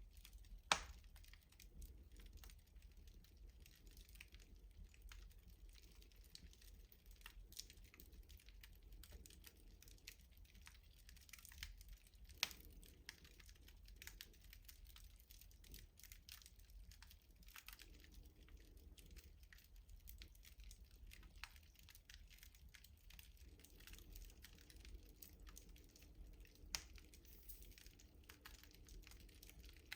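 Wood fire crackling in a traditional rustic stove: a quiet, steady stream of small ticks and snaps, with three louder pops about a second in, near the middle and near the end.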